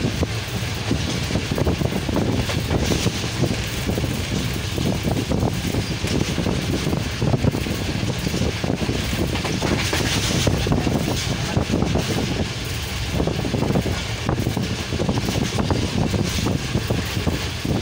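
Passenger train running at speed, heard from inside the carriage at an open door: a steady rumble with a continuous clatter of wheels over the rails.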